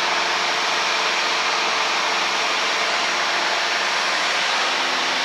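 Steady drone of a Piper Lance's six-cylinder engine and propeller in flight, heard inside the cabin.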